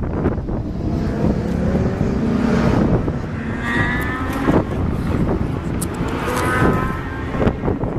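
Car engines running close by, with wind buffeting the microphone.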